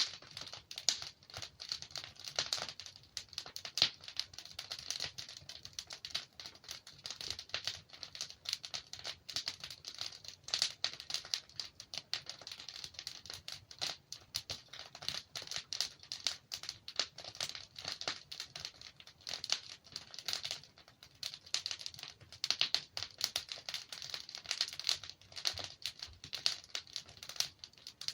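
Wood fire in a fireplace crackling steadily, with dense irregular snaps and pops of burning logs.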